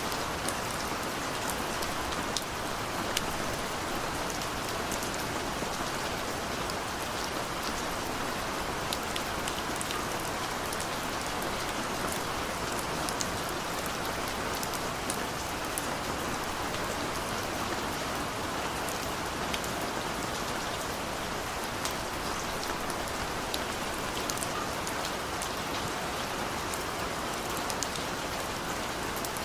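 Steady rain falling, a constant hiss with many small drop ticks landing on a surface.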